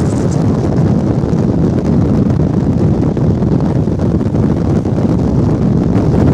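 A Class 68-hauled passenger train running, heard from on board: a loud, steady, low rumble with wind buffeting the microphone.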